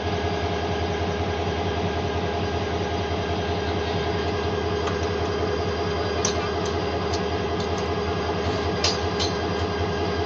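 Train running with a steady engine hum that holds one tone over a pulsing low rumble. In the second half come several sharp metallic clicks.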